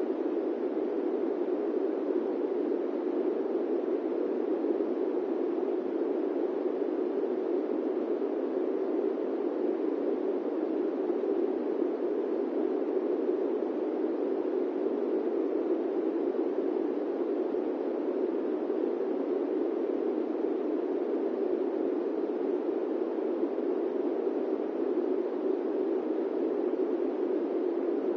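Steady airplane-cabin white noise: an even, unchanging rush, strongest in the low-middle range, with no tones or clicks in it.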